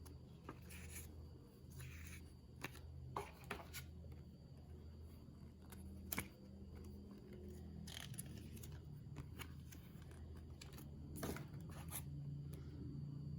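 Hands handling small hard plastic objects: scattered faint clicks and short rustles over a low steady hum.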